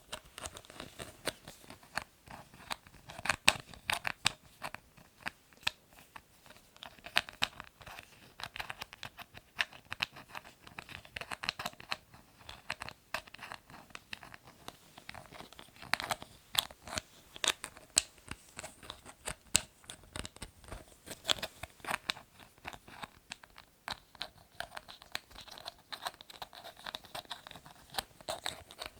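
Lids being handled for ASMR: a dense, irregular run of small clicks, taps and scratches, with no low end.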